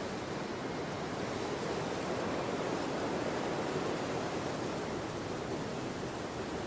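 Storm wind blowing in a continuous rushing gust that swells a little a couple of seconds in and eases slightly near the end.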